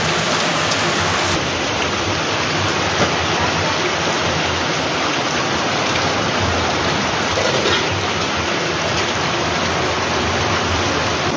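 Steady, fairly loud rain falling.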